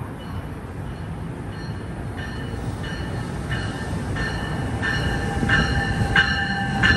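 NJ Transit commuter train arriving at the platform, its rumble growing louder as it nears. From about two seconds in, a train bell rings steadily, about three strikes every two seconds.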